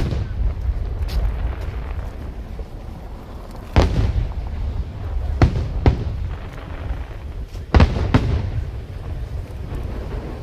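Aerial fireworks shells bursting: a string of sharp bangs, several in close pairs, over a continuous low rumble of echoing explosions.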